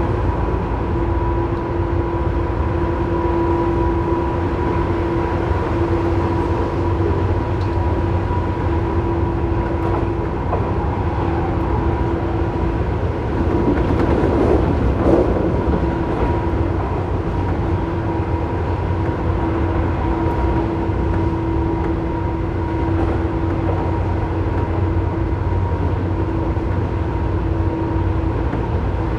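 Tobu 9000 series electric train running at speed, heard from above the armature-chopper controller of car MoHa 9204. Low running rumble with a steady high-pitched chopper whine, the abnormal noise this car's chopper is known for. A brief louder rush of noise about halfway through.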